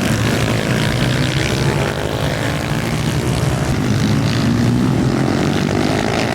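Pit bike engines running hard on track at high revs, a steady buzz that drifts up and down in pitch.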